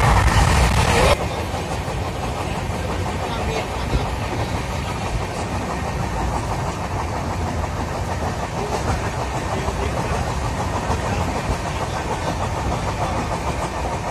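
Moving passenger train heard from inside the carriage: a steady rolling rumble of wheels on rail with rushing air. It is louder and hissier for the first second, then drops abruptly to an even rumble.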